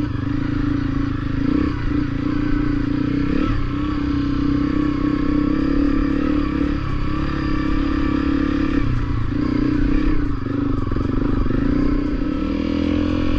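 Honda CRF250L's single-cylinder four-stroke engine running as the motorcycle is ridden along a rough dirt trail. The engine note dips and picks up again several times as the throttle changes.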